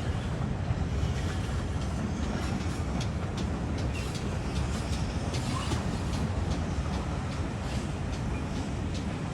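Steam train behind pannier tank 7754 running along the line: a steady low rumble of the train in motion, with scattered clicks of wheels over the rail joints.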